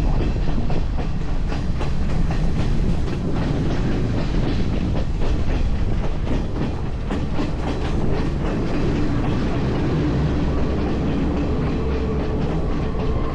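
A moving train rumbling along the track, with the wheels clicking over the rails throughout. A steady pitched tone comes in near the end.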